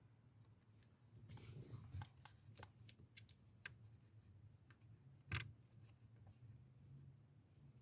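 Faint handling noises: rustling and a scattering of light clicks, with one sharper click about five seconds in, over a low steady hum.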